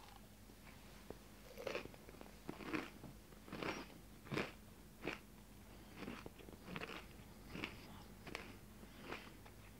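Close-up chewing of a crunchy rice-flour chocolate scone studded with roasted beans: a series of crisp crunches, a little more than one a second, starting about a second and a half in.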